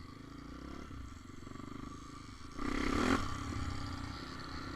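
Motorcycle engine running as it rides along, with a brief louder burst a little past the middle.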